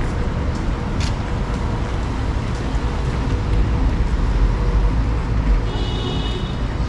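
Steady city street traffic noise, a low rumble of passing vehicles, with a brief high-pitched squeal about six seconds in.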